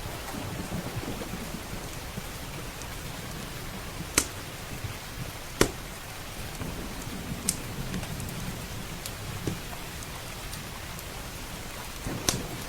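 Steady rain falling with a low thunder rumble underneath, and a handful of sharp pops from a crackling wood fire in a fireplace.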